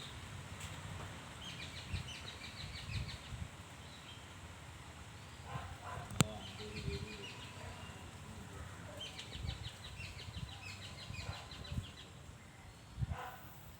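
Birds calling in bouts of rapid, trilled high notes, three times over, with low thumps underneath and one sharp click about six seconds in.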